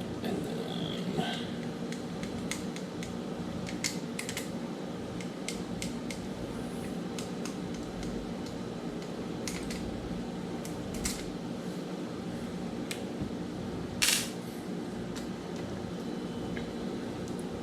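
Small clicks and taps of a spinning reel's parts and a screwdriver being handled during disassembly, scattered through a steady low hum. One sharper click stands out about two thirds of the way in.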